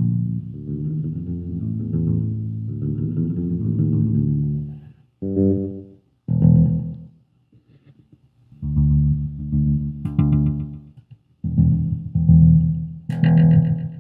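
Fender Jazz Bass played through an MXR M175 digital time delay into an Orange Crush bass amp. A steady run of notes lasts about five seconds, then come two short phrases, a pause, and a last stretch of notes that ends abruptly.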